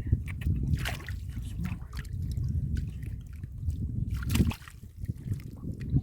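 Shallow water sloshing and splashing, with a sharper splash about four and a half seconds in, over a steady low rumble.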